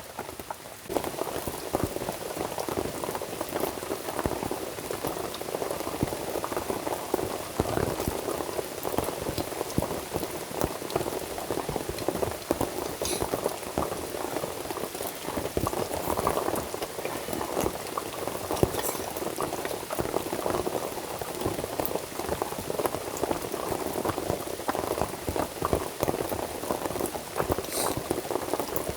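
Liquid boiling in a pot: a dense, continuous bubbling that grows louder about a second in.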